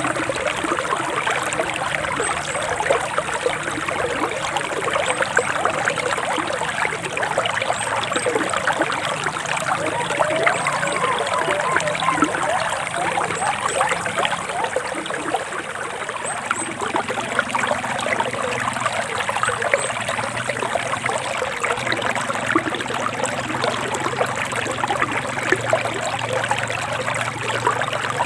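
Forest stream babbling and trickling steadily over rocks, with faint high bird chirps now and then.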